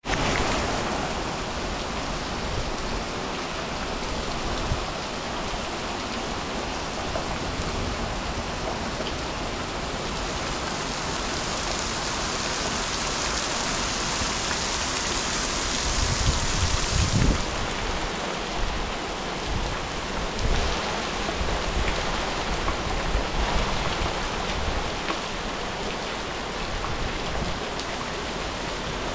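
Heavy rain falling steadily on open ground, with a brief low rumble a little past halfway.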